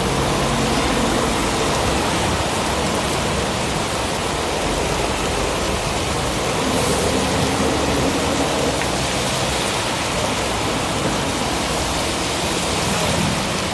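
Heavy rain driven by strong wind: a dense, steady rushing hiss with no break.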